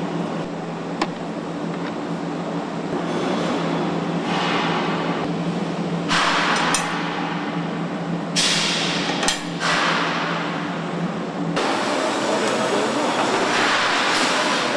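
Truck assembly-line factory noise: a steady machine hum with loud bursts of hissing and a few sharp knocks. About three quarters of the way through, the hum stops and a different steady machinery noise takes over.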